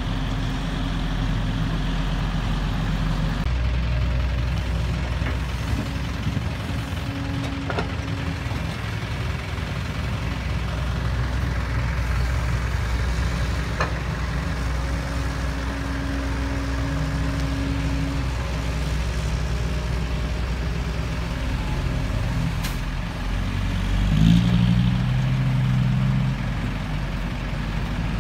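Heavy diesel engine of an excavator or dump truck running steadily, briefly revving up and getting louder near the end.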